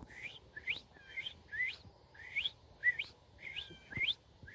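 Whistled imitation of a red-eyed vireo's song: a rapid, choppy run of short whistled chirps, about three a second, most of them sweeping upward in pitch.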